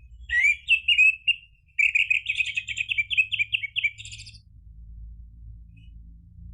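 Orange-headed thrush singing: a short phrase of varied notes, then a longer fast run of repeated notes lasting about two seconds, with the bird falling quiet for the last couple of seconds.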